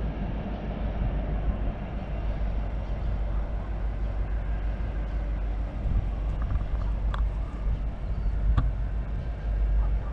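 Steady low rumble of a passing train, with two sharp metallic clanks in the second half.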